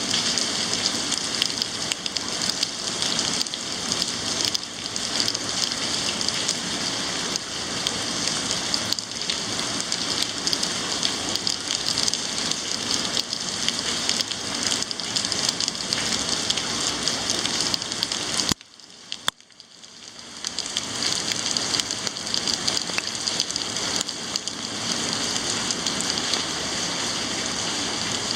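Heavy thunderstorm rain pouring down: a steady, dense hiss of falling drops with a fine patter. About two-thirds of the way through it cuts out suddenly for about a second, then fades back in.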